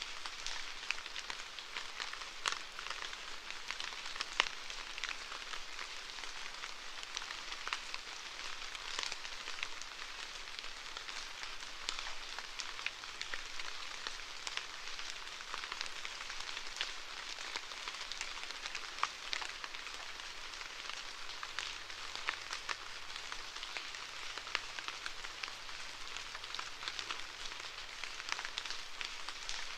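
Steady rainfall: an even hiss dotted with many separate drop ticks.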